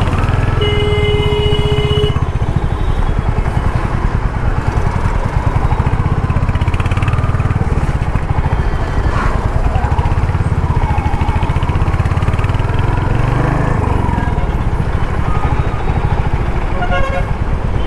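Royal Enfield Hunter 350's single-cylinder 350cc engine running steadily under way, with a deep, even exhaust pulse. A vehicle horn sounds about half a second in for roughly a second and a half, and another brief horn comes near the end.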